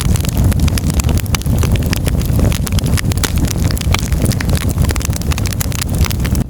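Firewood burning in a fireplace: a steady low roar of the flames with frequent sharp, irregular crackles and pops of the burning wood.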